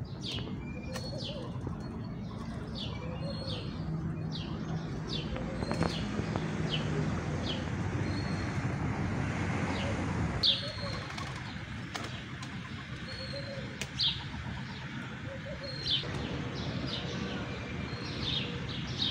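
House sparrows chirping: many short, sharp chirps repeating irregularly, over a steady low rumble.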